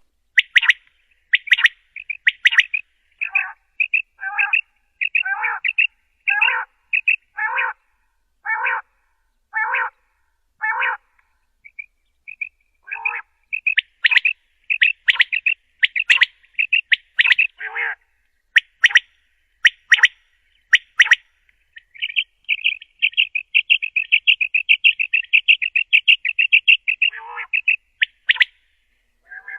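Common quail calling: separate short calls about one a second, then a rapid trill of quick repeated notes lasting about five seconds in the last third, with clean silence between calls.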